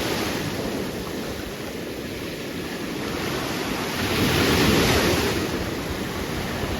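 Ocean surf washing onto the beach, with wind buffeting the microphone; a wave surges up about four seconds in and then ebbs.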